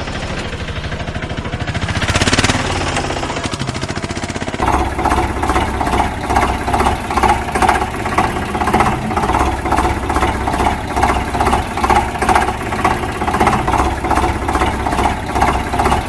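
An engine-like mechanical sound: a rapid rattle that changes, about four and a half seconds in, to a steady rhythmic chugging of about three beats a second.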